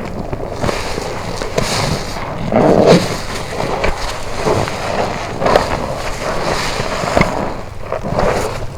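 A soaked car wash sponge being squeezed and rinsed, water squelching and splashing out in repeated squeezes, the loudest about two and a half seconds in.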